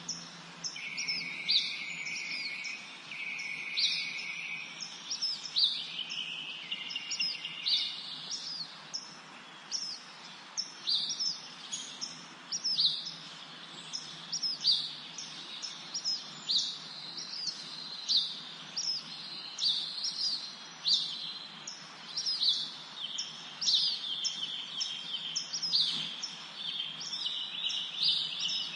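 Several songbirds singing in a spring forest: a rapid stream of short, high chirps that drop in pitch, with longer trills in the first few seconds and again near the end.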